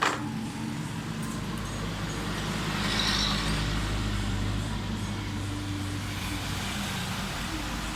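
Lifan 150 motorcycle engine running steadily with a low rumble. There is a sharp click at the start and a swell of noise about three seconds in.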